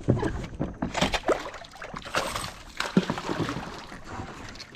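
Kayak on the water: irregular knocks against the hull and short splashes as a bass is fought from it.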